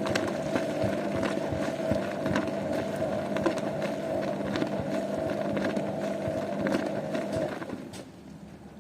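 Zanussi washing machine running, its drum turning with a steady motor whine and a lower hum, with irregular clicks and knocks. The motor and drum stop about seven and a half seconds in.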